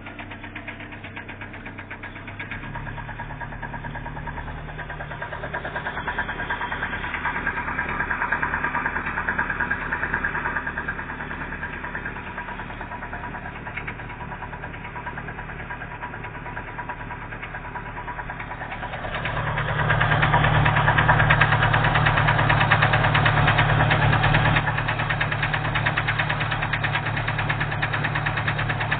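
GAZelle's UMZ petrol four-cylinder engine running with a steady knock, the sign of a piston whose skirt has broken off. The engine speeds up gradually in the first third and settles back. About two-thirds of the way in it is revved harder for several seconds, then eases to a slightly raised idle.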